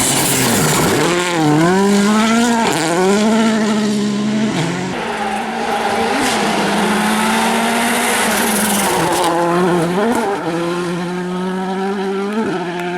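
Volkswagen Polo WRC rally car's engine at full effort, its pitch dipping and climbing sharply several times in the first few seconds, then holding high and steady before dipping again and rising near the end.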